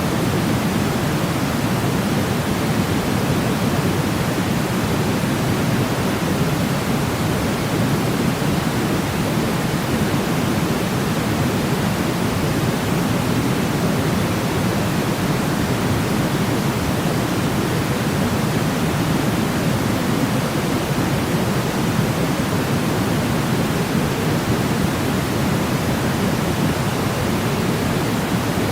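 Steady white-noise sleep sound: an even, unbroken hiss, heavier in the low end than the high, that does not change.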